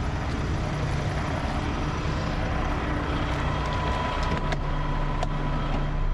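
Concrete mixer truck's diesel engine running steadily, with a couple of sharp clicks about four and a half and five seconds in.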